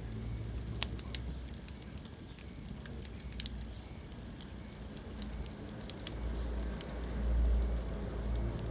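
Wood fire crackling in a fireplace: scattered sharp pops and snaps over a low rumble of burning, which swells for a couple of seconds about six seconds in.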